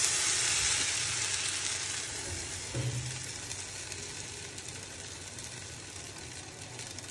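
A slice of bread coated in semolina and yogurt batter sizzling in hot oil in a pan, just after it has been laid in. The sizzle is loudest at first and slowly dies down.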